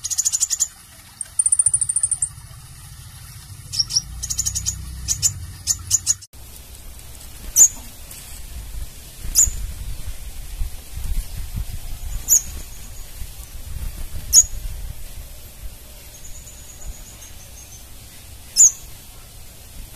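Crimson sunbird calling: rapid runs of high, sharp chip notes and a short buzzy trill in the first six seconds, then single sharp chips every few seconds, over a low background rumble.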